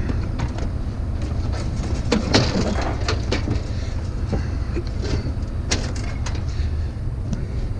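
Scrap metal pieces knocking and clinking now and then as they are handled and sorted, over a steady low rumble.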